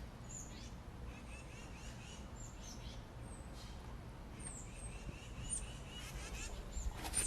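Faint birdsong: many short high chirps and whistles over a low steady background rumble.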